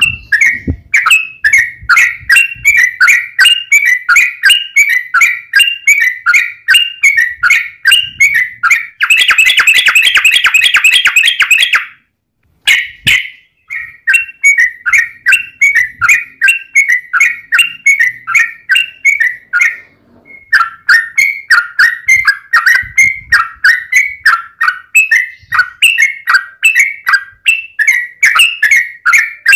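Yellow-vented bulbul (trucukan) singing a long run of rapid, loud chattering notes, about three a second. A denser unbroken trill runs for about three seconds around a third of the way in, with brief pauses just after it and again about two-thirds of the way in.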